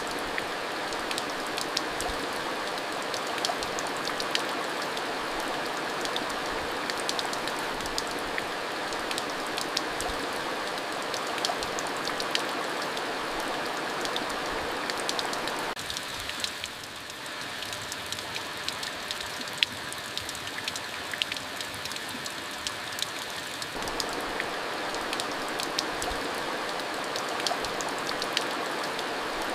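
Steady rain falling, a continuous rushing hiss with many sharp individual drop ticks on a surface. Past the middle the rush eases for several seconds before filling back in.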